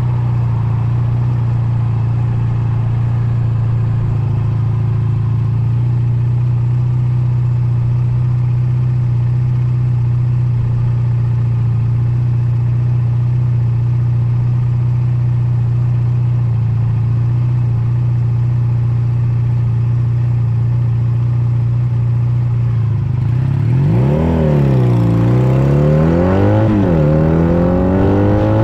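Honda Nighthawk 250's air-cooled parallel-twin engine idling steadily, then, about 23 seconds in, revving as the bike pulls away: the pitch climbs and drops back twice, then climbs again near the end.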